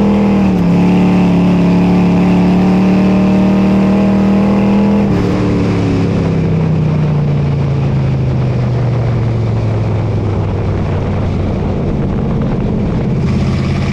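Dirt modified race car engine running hard at a steady high pitch, then easing off about five seconds in and winding slowly down in pitch.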